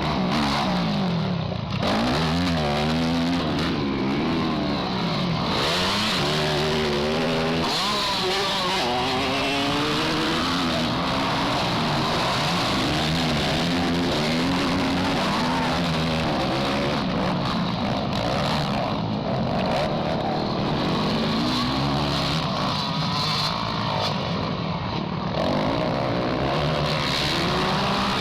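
Motocross bike engines revving hard, their pitch rising and falling over and over as the riders throttle on and off, often several bikes heard at once.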